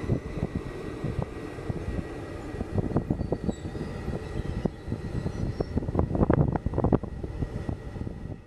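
Stadler FLIRT electric train (NSB Type 74/75) rolling past, its wheels clattering and knocking over the rails above a low rumble, with a faint steady high tone underneath.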